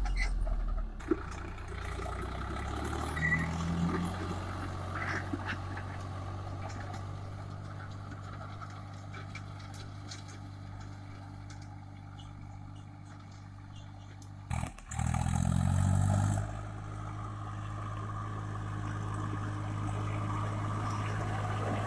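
Swaraj 744 FE tractor's three-cylinder diesel engine running steadily while pulling a rotary disc plough. About two-thirds of the way through the sound cuts out for a moment, comes back louder with the pitch rising for a second or two, then settles to steady running again.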